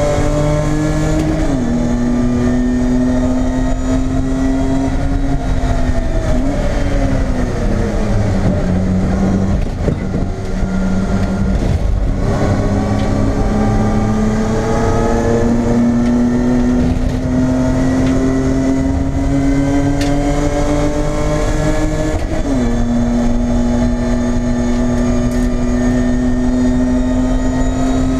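BMW E30 race car's engine at full race pace, heard from inside the stripped cabin. Its note climbs steadily and drops sharply as it changes up, about a second and a half in and again about three quarters of the way through. In between it falls away slowly for a few seconds as the car slows for a corner.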